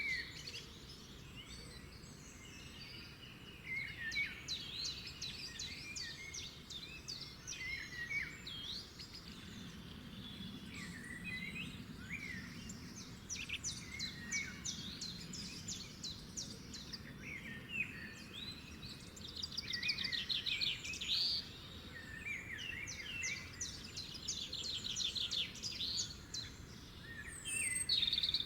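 Several songbirds chirping, whistling and singing fast trills, overlapping one another, over a steady low background noise.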